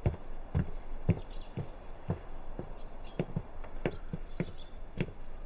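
Footsteps walking at an even pace, about two steps a second.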